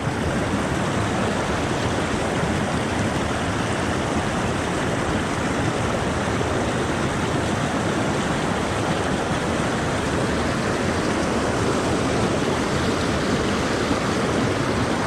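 Mountain creek water rushing and burbling over rocks, a steady even rush with no breaks.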